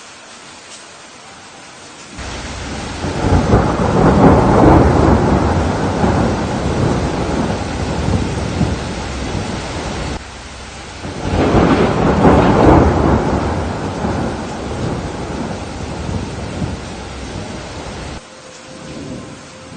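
Thunderstorm: steady rain with two long rolls of thunder. The first builds about two seconds in and dies away; the second starts about eleven seconds in, and each ends with a sudden drop back to the rain alone.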